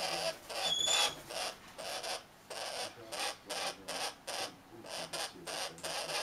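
Australian king parrot gnawing and nibbling with its beak: a rapid series of short dry rasps, about three a second. A brief high squeak comes about a second in.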